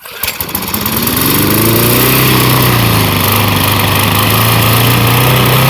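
Petrol lawn mower engine catching at once and running loudly, its speed rising over the first second or so, dipping slightly midway and climbing again near the end.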